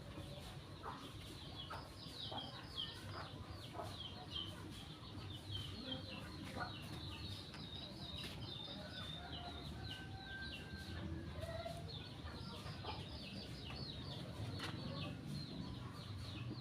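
Birds chirping continuously: many short, quick, falling high-pitched chirps, several a second, over a steady low rumble.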